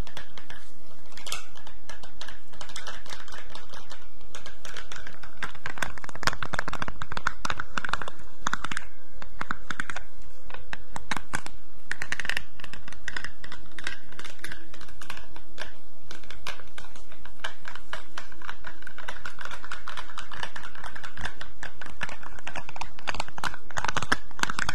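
Close-miked ASMR trigger sounds: dense, irregular clicking and tapping, like typing, made for a pretend laser tooth-whitening step, over a steady hiss.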